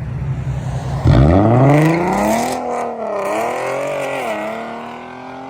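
Infiniti Q50's twin-turbo V6 idling, then about a second in revved hard, its pitch sweeping quickly upward and holding high with a wavering note as the car accelerates, easing off near the end.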